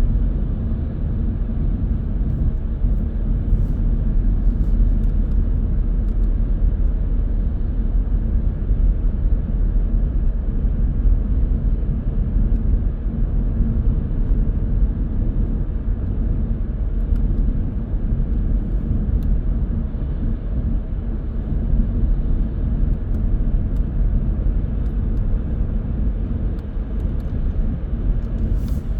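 Steady low rumble of a car driving: tyre and engine noise, even throughout with no sudden events.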